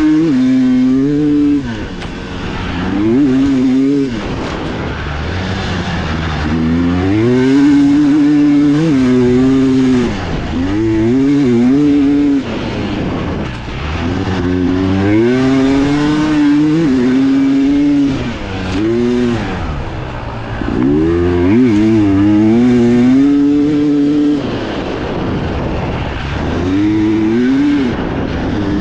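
Dirt bike engine heard on board, revving up and falling back again and again as the rider works the throttle and shifts gears through a trail section.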